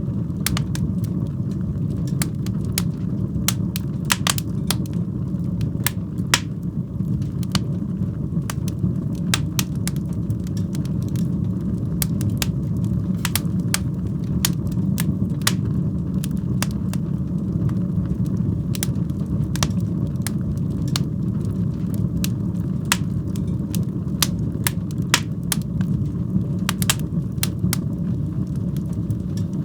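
Wood fire in a fireplace crackling, with frequent sharp pops and snaps, several a second, over a steady low rumble of the burning.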